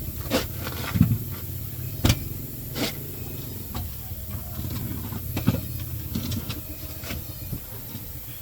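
A steady low engine hum, with a few sharp knocks of metal on metal scattered through it.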